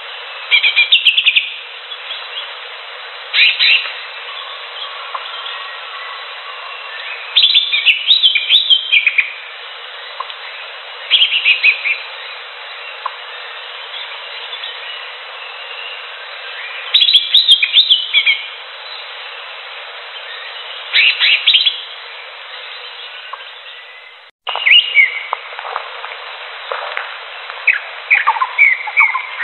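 Green leafbird (cucak hijau) singing in loud bursts of quick high chirps and trills, one phrase every few seconds, over a steady background hiss. The sound drops out for an instant partway through, like an edit cut.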